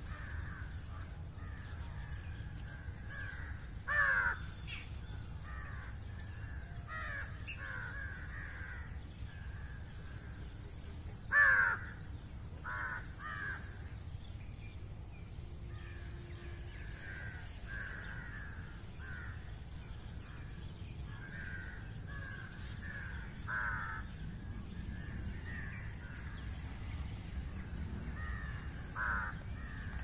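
Birds calling over and over in short calls, with a few louder calls standing out, over a steady low rumble.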